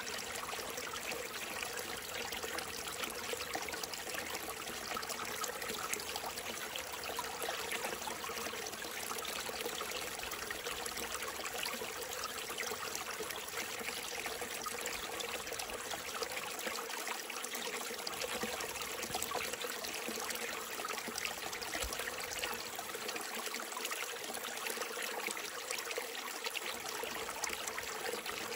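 A small mountain stream trickling and splashing steadily over rocks.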